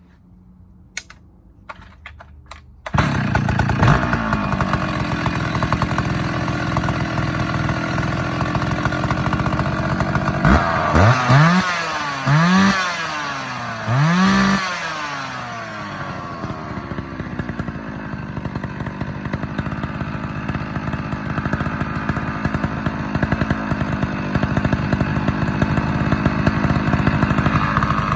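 Stihl 045 Super two-stroke chainsaw starting up a few seconds in after a couple of clicks, then revved up and back down three times in quick succession before settling to a steady run. It has an open, loud exhaust note from a modified muffler.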